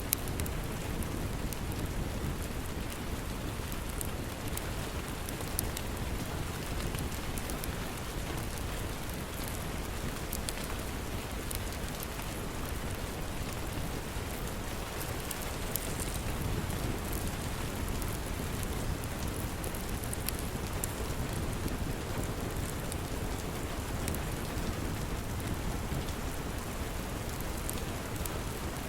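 Steady rain, with a low rumble underneath and scattered small crackles and pops from a wood fire burning in a fireplace.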